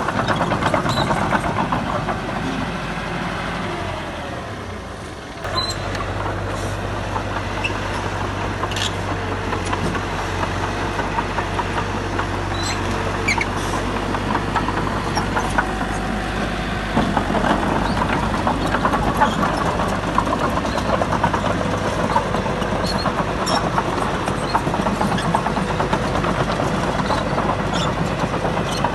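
Heavy diesel engine of earthmoving machinery running steadily, with scattered short clicks and knocks. The sound drops slightly, changes abruptly about five seconds in, then grows louder past the middle.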